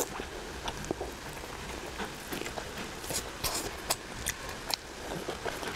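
A person chewing a mouthful of braised pork belly: irregular short mouth clicks and smacks, a few louder ones around the middle.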